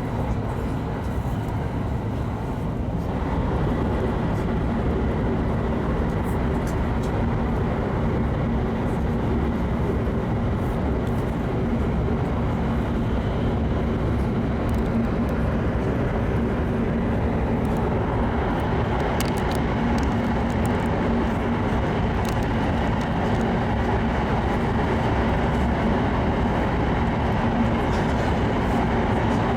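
Cabin noise of an E7 series Shinkansen running at speed: a steady rumble with a faint hum. It grows louder about three seconds in and again around eighteen seconds.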